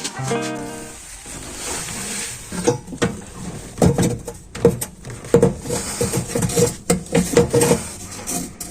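Metal clinking and knocking as a Hotpoint oven's central heating element is worked loose and pulled out. There is a run of sharp clicks and short rattles starting about three seconds in.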